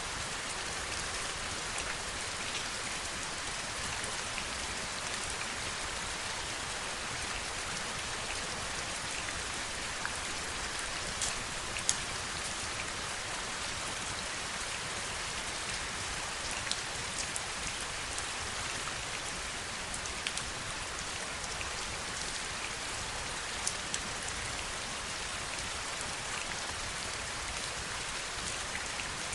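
Steady heavy rainfall, a dense even hiss, with a few sharper single drop ticks standing out here and there, the loudest about twelve seconds in.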